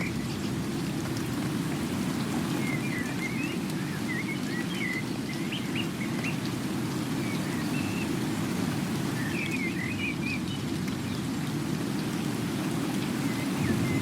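Steady rain, with a small bird chirping in short runs of quick high notes three or four times.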